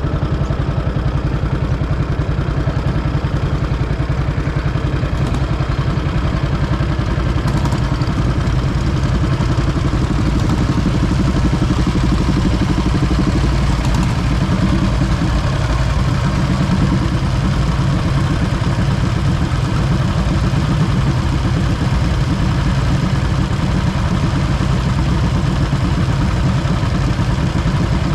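Vintage motorcycle engine running steadily with a fast, even beat and some mechanical clatter.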